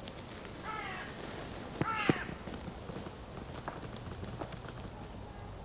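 Two short animal calls about a second apart, over a quiet background with a few faint clicks.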